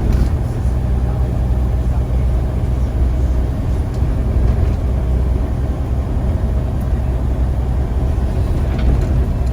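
Scania CN94UA single-deck bus engine running with a steady low rumble.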